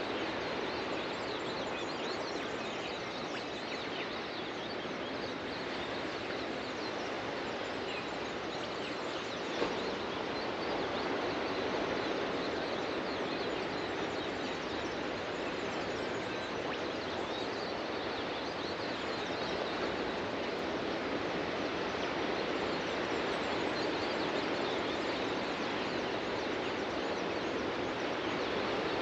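Ocean surf washing onto the beach: a steady, even rushing, with faint bird chirps over it and a single soft click about ten seconds in.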